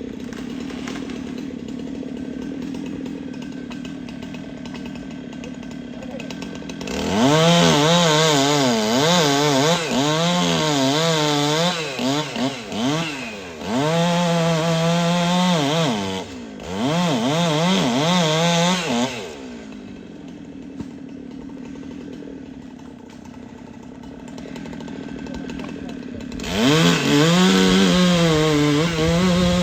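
A two-stroke chainsaw idling, then opened up to full throttle about a quarter of the way in. It cuts through wood in three long bursts, its pitch wavering under load, with brief drops between them. It falls back to idle and revs up again to cut near the end.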